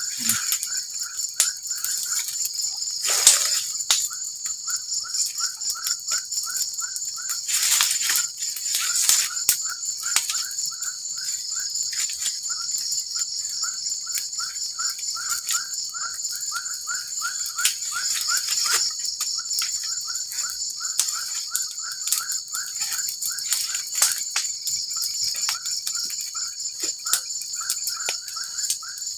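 A steady, high-pitched chorus of forest insects such as crickets, with a short chirp repeating about twice a second. A few sharp knocks break in, the loudest about three seconds in and again near eight seconds.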